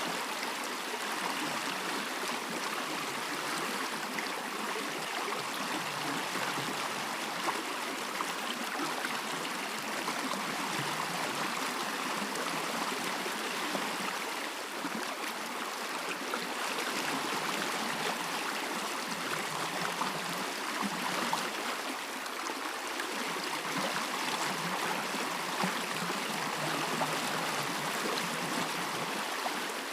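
A stream running steadily, a continuous babble of flowing water.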